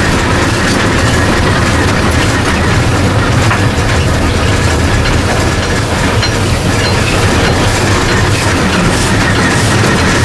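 New Zealand Railways Ww class 4-6-4T steam tank locomotive Ww 644 running along the line, heard from its cab: a loud, steady rumble of the engine and its wheels on the track.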